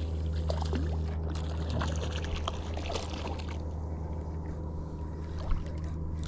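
Small fishing boat on the water: a steady low hum with light water sounds and scattered small clicks, and one sharp knock about five and a half seconds in.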